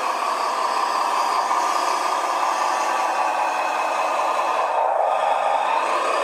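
Simulated engine sound from an RC bulldozer's onboard sound unit, running steadily through a small speaker with no deep bass, with some rattle and clatter mixed in.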